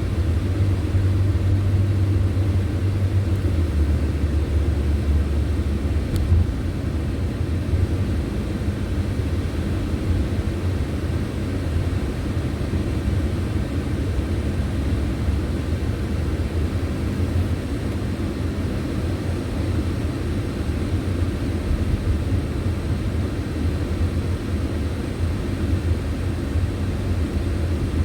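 Steady low rumble of a car's engine and tyres on the road, heard from inside the moving car, with a low drone that shifts slightly lower about four seconds in.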